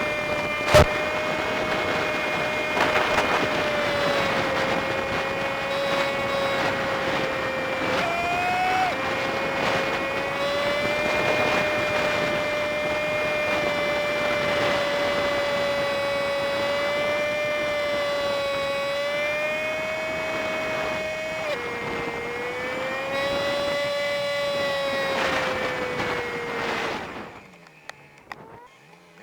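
Honda Super Cub 50's single-cylinder engine and riding noise played back at five times speed, turning it into a steady high whine with several overtones that dips briefly in pitch twice, as at gear changes. A sharp click comes about a second in, and near the end the whine drops away suddenly to a faint hum.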